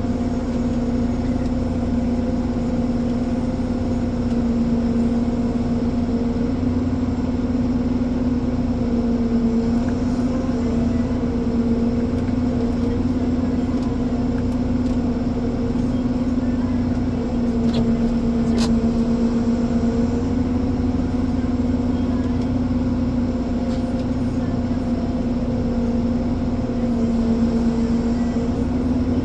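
Ponsse Elephant forwarder's diesel engine running steadily, its pitch sagging slightly and recovering a few times.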